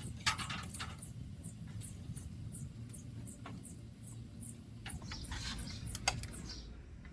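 Faint outdoor ambience: rapid, very high-pitched chirping repeated several times a second over a low steady rumble, with a couple of light knocks, one just after the start and one about six seconds in.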